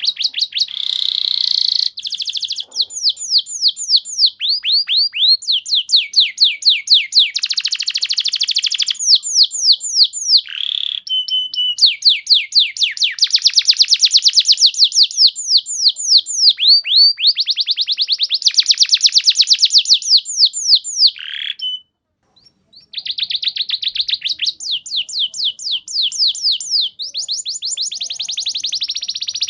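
Domestic canary singing a long, unbroken song of fast trills: runs of rapidly repeated downward-sweeping notes that change phrase every second or two, with one short pause a little after the middle.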